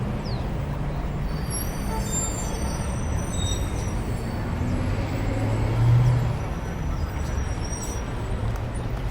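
A Tesla Model 3 driving, with a steady road and tyre rumble and a low hum that swells briefly about six seconds in.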